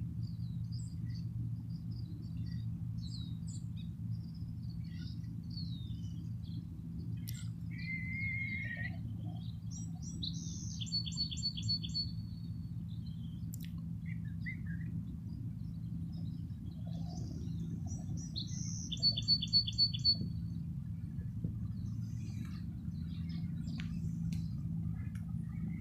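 Small birds chirping, and a songbird twice singing a short phrase of a whistle, a buzz and a fast trill. A steady low hum of background noise runs underneath.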